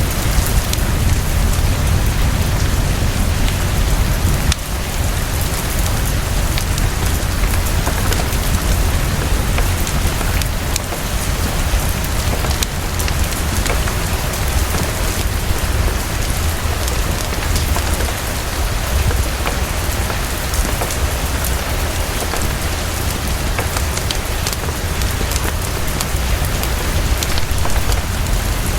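Heavy, fast, steady rainfall: a dense even hiss over a deep low rumble, with many small scattered ticks of drops.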